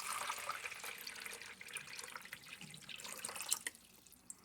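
Water pouring in a steady stream for a coffee maker, thinning out about three and a half seconds in, with a few small clicks near the end.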